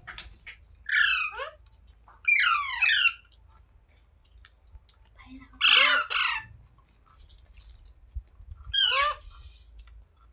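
Ringneck parrot (rose-ringed parakeet) giving four loud calls a few seconds apart, each a quick run of notes falling in pitch.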